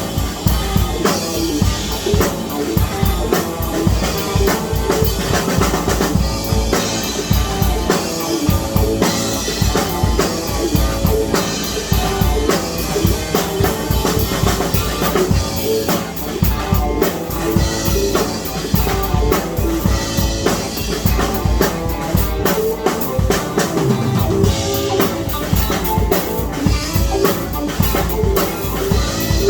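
Music driven by a drum kit, with bass drum and snare hits keeping a steady beat over pitched instruments.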